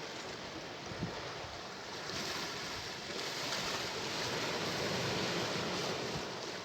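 Sea waves surging and washing in, the surf swelling about two seconds in and easing off near the end, with a brief low thump about a second in.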